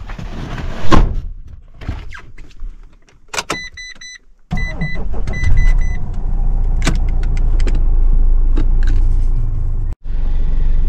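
Knocks and handling noise of getting into a car, then a series of short electronic chime beeps. About four and a half seconds in, the car's engine starts and runs steadily, heard from inside the cabin.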